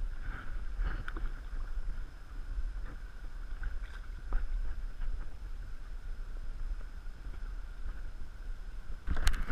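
Out on the water in a kayak: a steady low wind rumble on the microphone, with a few faint knocks and a louder burst of noise near the end.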